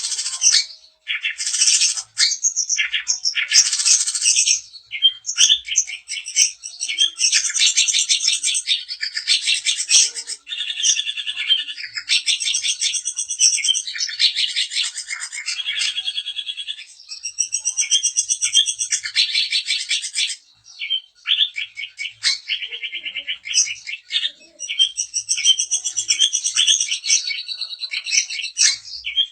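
Long-tailed shrike (cendet) singing a fast, varied, high-pitched chattering song in long phrases, broken by a few short pauses.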